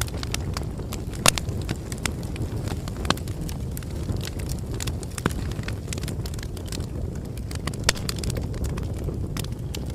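Bonfire burning: a steady low rumble of flame with scattered crackles and sharp pops, a few snaps standing out louder.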